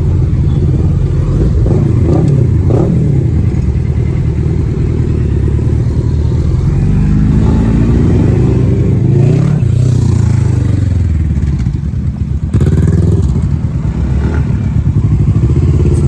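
Kawasaki ZX-10R's inline-four engine with its stock exhaust, riding and accelerating: the pitch rises steadily about halfway through, then falls off, with a sudden drop around twelve seconds in.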